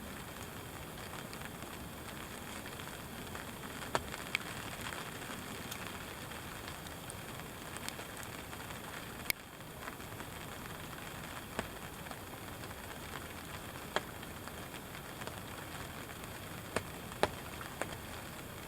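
Steady light rain falling, with occasional single louder drops ticking.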